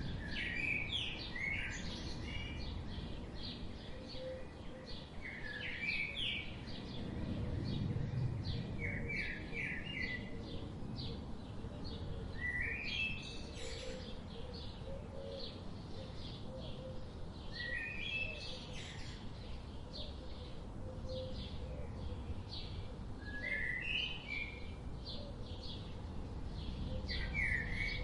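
Songbirds singing: one bird repeats a short, quick, rising phrase every four or five seconds, over a steady background of many fast high chirps and a low outdoor hum.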